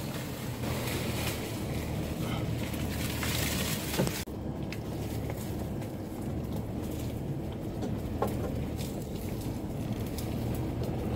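Mitsubishi Pajero's engine running low and steady as the vehicle crawls over a rough track, heard from inside the cab, with scattered knocks and clicks from the body and brush. A sharp knock comes about four seconds in.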